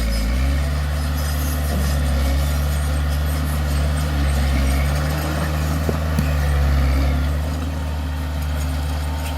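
A heavy machine's diesel engine running steadily, with a couple of small sharp knocks about six seconds in.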